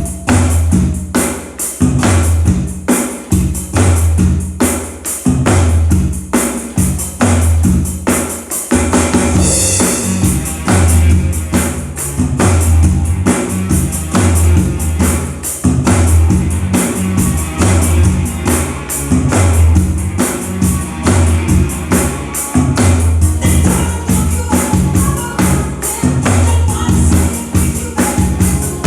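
Drum kit played with a steady, busy beat along with a song, over strong bass notes and dense high percussion.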